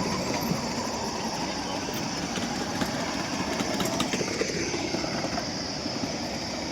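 Vehicle engine running steadily, with a falling pitch about four and a half seconds in.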